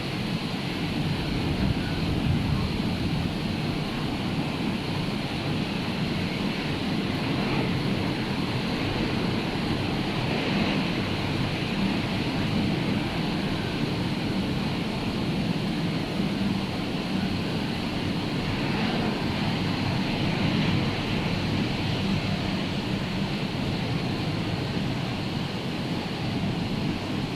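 Ocean surf breaking and churning in a steady wash, with wind buffeting the microphone. The sea is rough from a hurricane.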